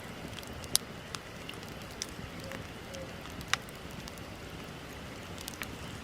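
Wood bonfire crackling over a steady hiss, with scattered sharp pops. The loudest pops come just under a second in and again a little past halfway.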